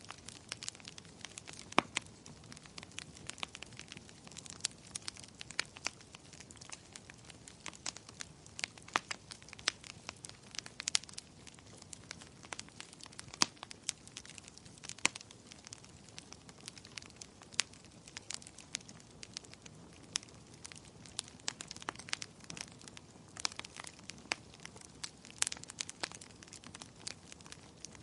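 Wood fire crackling in a fireplace: many sharp, irregular pops and snaps over a soft steady hiss of the flames.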